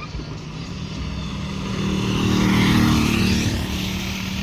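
A motor vehicle passing close by, its engine hum and rushing noise growing louder to a peak a little under three seconds in, then fading.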